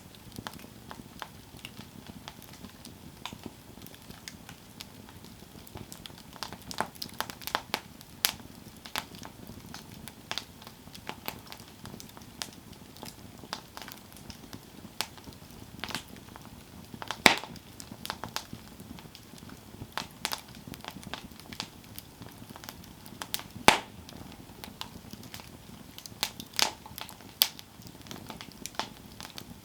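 Wood campfire burning, with irregular sharp crackles and pops over a low steady hiss of the flames; the loudest pops come about 17 and 24 seconds in.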